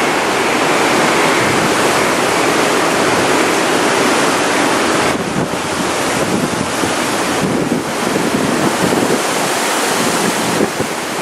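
Hurricane wind and rain: a loud, steady rush with wind buffeting the microphone, easing briefly about five seconds in and again a little later.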